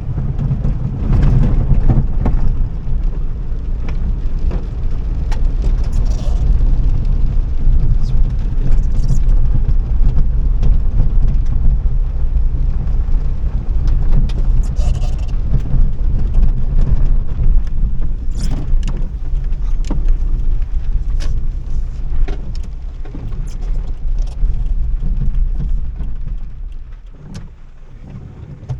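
A car being driven: steady low engine and road rumble with scattered knocks and rattles, dying down near the end.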